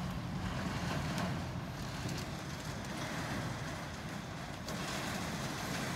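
Heavy rain falling in a storm, a steady hiss, with gusting wind buffeting the microphone in a low rumble.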